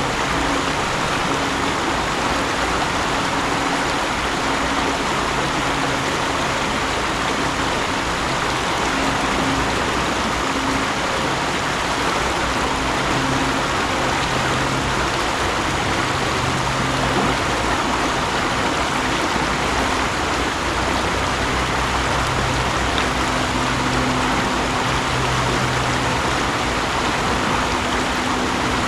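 Mountain stream flowing, a steady rush of water with low gurgling notes that come and go.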